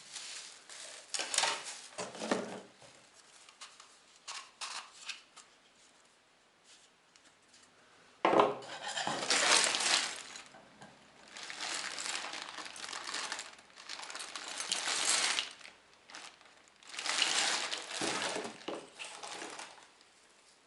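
Small metal parts being handled: irregular clinks and clatter, then three spells of a second or two of rubbing or rustling noise.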